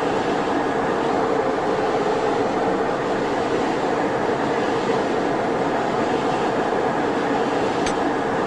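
Metal lathe running, a steady machine hum and whir that does not change.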